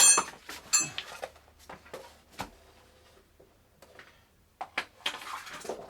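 Steel hand tools clinking and clattering as they are handled and set down, with two sharp ringing clinks right at the start followed by scattered lighter knocks and clicks.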